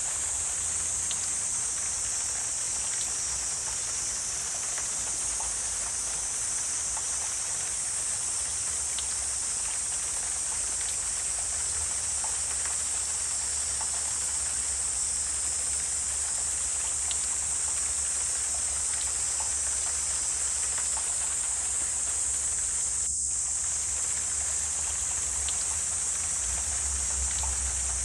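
Wetland ambience: a steady high-pitched insect drone, with scattered faint ticks and a low rumble beneath it.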